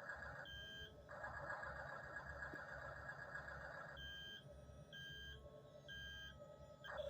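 Small electric drive motors and gearbox of a Double E RC track-type tractor whirring, stopping twice. During the stops the toy gives short electronic beeps: one about half a second in, then three in a row over the last few seconds.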